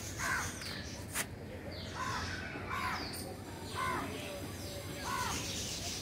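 A bird calling over and over: five short calls about a second apart, with a sharp click a little after the first call.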